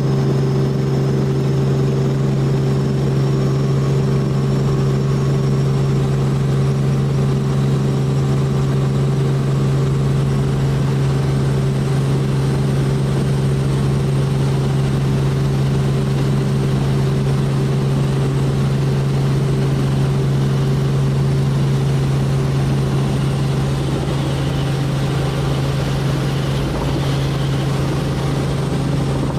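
Tour helicopter in flight: a steady drone of engine and rotor with a strong low hum.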